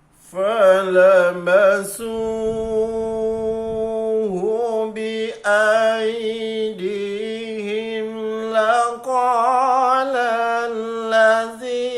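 A man's voice reciting the Quran in slow, melodic tilawah, holding long drawn-out notes with ornamented turns of pitch.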